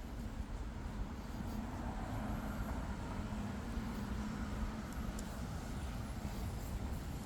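A motor vehicle's engine hum, a low steady rumble that swells in the middle and eases off.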